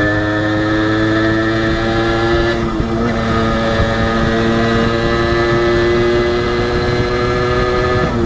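Honda H100S two-stroke single-cylinder motorcycle engine pulling under way, its note climbing slowly. About three seconds in the note drops briefly, then climbs again and holds steady.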